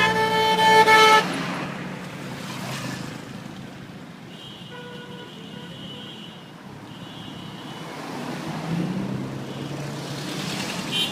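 A vehicle horn blares loudly for about the first second over the sound of road traffic. Fainter horn toots follow around the middle, and a vehicle passes near the end.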